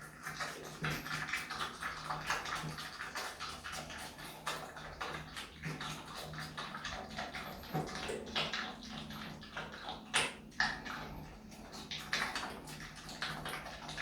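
Himalayan marmot chewing food in a sink: irregular wet clicks, crunches and mouth smacks, some of them squeaky, over a low steady hum.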